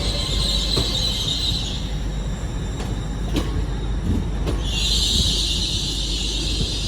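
Train wheels squealing against the rails over a low rumble of a train moving through the station. The squeal fades out about two seconds in, a few sharp clicks follow, and the squeal comes back louder near the end.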